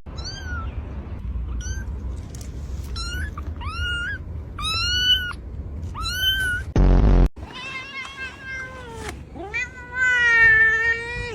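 Domestic cat meowing repeatedly: a string of short meows rising and falling in pitch, then, after a brief loud burst about seven seconds in, longer drawn-out meows ending in one long meow.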